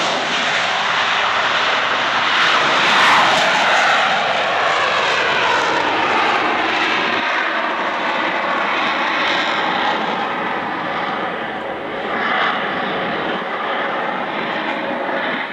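Lockheed C-130 Hercules at takeoff power, its four turboprop engines together with JATO solid-fuel rocket bottles making a loud, continuous roar. The tone of the roar sweeps up and down as the aircraft passes and climbs away.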